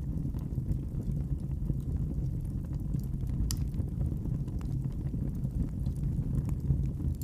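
Wood fire in a fireplace burning with a steady low rumble and scattered sharp crackles, one louder pop about three and a half seconds in.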